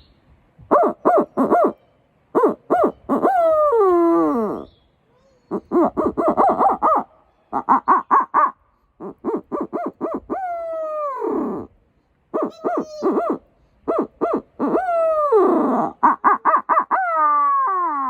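Hand-blown Hootie Hoot owl hooter (walnut) imitating a barred owl's 'who cooks for you, who cooks for you all' call: repeated phrases of short hoots, several ending in a long falling, rolled note. A locator call used to make turkeys gobble.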